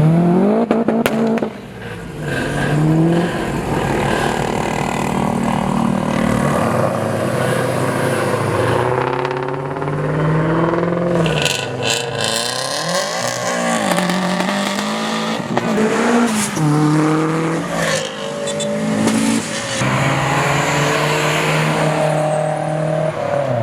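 Car engine revved hard over and over, the pitch climbing and dropping again and again, with tyre squeal from wheelspins and donuts.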